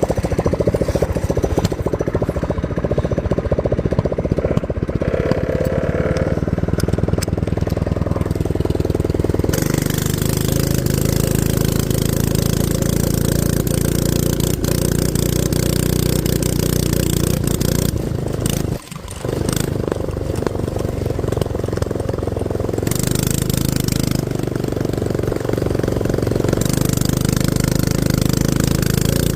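Go-kart's small gas engine running under way, its note changing with the throttle. It gets louder and brighter about ten seconds in, drops off the throttle for a moment just before twenty seconds, then picks up again.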